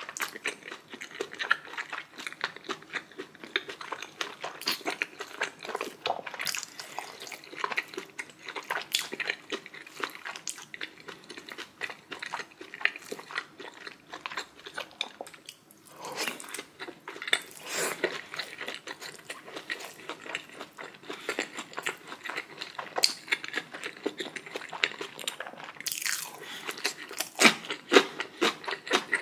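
A person chewing and biting food close to the microphone, with a dense run of small wet mouth clicks and a few louder bites. The food is steamed dumplings, kimchi and chewy noodles.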